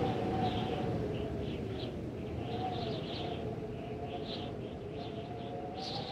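Birds chirping in short repeated bursts over a steady hum, the whole slowly fading down.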